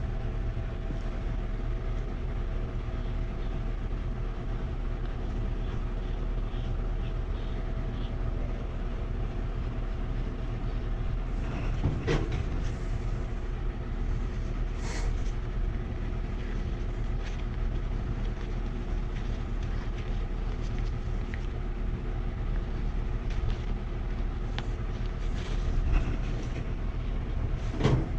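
A steady machine hum made of several low, even tones, with a few brief clicks and knocks about twelve, fifteen and twenty-six seconds in.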